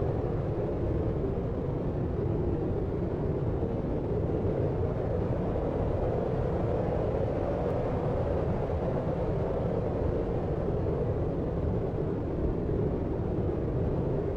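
Steady deep brown-type noise, its energy heavy in the low end with little treble and no distinct sounds standing out.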